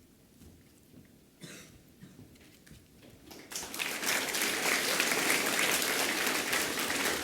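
Audience applauding, starting about three seconds in after a few seconds of quiet rustling, and going on steadily.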